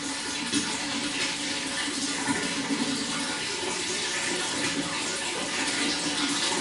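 Water running and splashing steadily, with a bubbling, gurgling texture.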